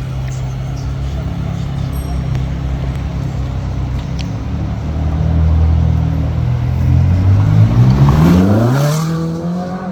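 Street traffic with engines running steadily. About seven and a half seconds in, a car accelerates hard past the microphone: its engine note climbs steeply for over a second, then levels off and fades.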